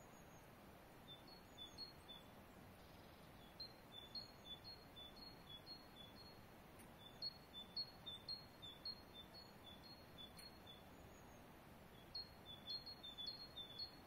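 Small songbird chirping: runs of short, high chirps, several a second, in three or four bursts with short gaps between, over a faint steady hiss.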